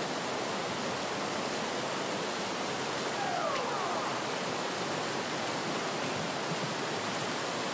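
Steady, even rushing roar of helicopter noise, with a few faint falling tones about three seconds in.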